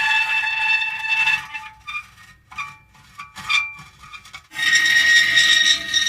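Metal creaking: a long, high squeal on a steady pitch, then a couple of seconds of short, quieter creaks and ticks, then another drawn-out squeal beginning about three-quarters of the way through.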